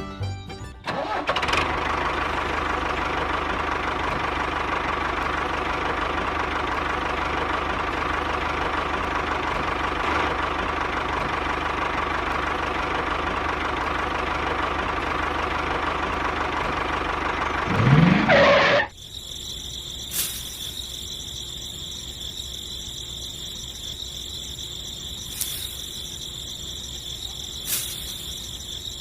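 Small electric motor of a homemade miniature machine running steadily with a constant hum. About 18 seconds in, a short rising sweep is heard and the motor cuts off suddenly. A quieter, high-pitched steady whine follows, broken by a few sharp clicks.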